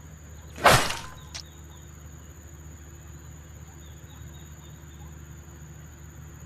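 Open-air ambience: a steady insect drone with faint, short chirps of small birds hunting insects. About half a second in, a brief loud rushing thump hits the microphone.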